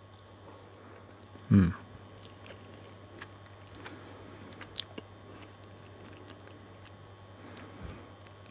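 A person quietly chewing a bite of Basque-style cheesecake, with faint mouth clicks, and a short hummed vocal sound about one and a half seconds in.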